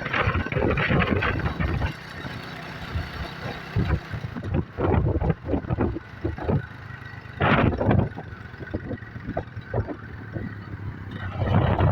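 Yamaha YBR motorcycle engine running while riding, a steady low hum, with irregular gusts of wind buffeting the microphone.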